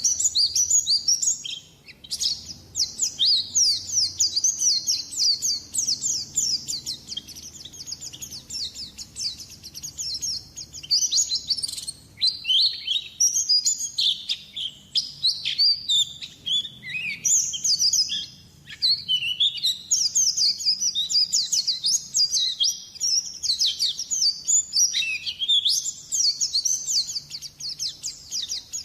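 White-eye (pleci) lure-call song: a rapid, high twittering of quick falling notes, almost without pause, briefly dropping off about 2 s and 12 s in.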